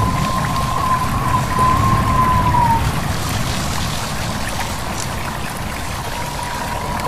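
Stream water babbling and wind through leaves, with a low steady rush. Over it a thin, high, steady whistle-like tone holds for about three seconds, dips slightly as it fades, and returns faintly near the end.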